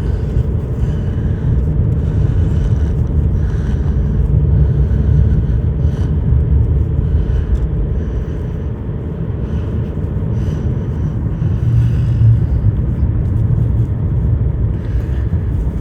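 Steady low rumble of a vehicle moving along a bumpy road, with a few faint ticks.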